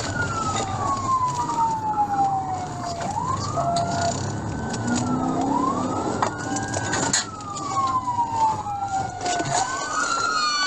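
Police car siren on a slow wail, each cycle rising quickly and falling slowly over about three seconds, over the patrol car's road and engine noise.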